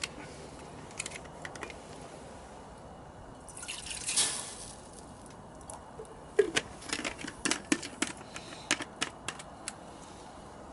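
Shochu poured briefly into a cup or pot for heating, swelling and falling off about four seconds in, followed by a run of light clinks and taps of the cup and bottle being handled.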